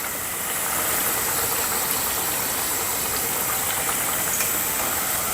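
Dough snacks deep-frying in hot coconut oil: a steady sizzle with a few faint pops.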